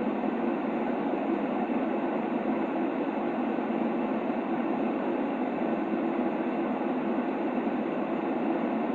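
Steady white noise for a baby's sleep: an even, unchanging hiss that sits mostly in the low-middle range, with a deep, rumbly cast and nothing in the lowest bass.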